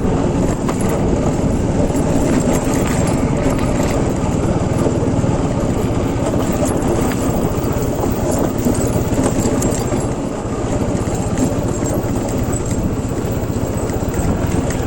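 Motorcycle engine running steadily with a fast, even pulsing, dipping slightly about ten seconds in.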